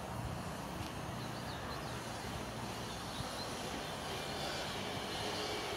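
Distant electric passenger train approaching along the line: a steady low rumble that grows a little louder near the end, when a faint steady whine joins it.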